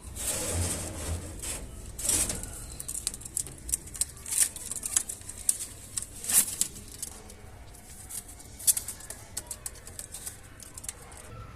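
Pigeons moving about, with a brief wing-flapping flurry at the start and another about two seconds in, then a run of irregular sharp clicks and taps.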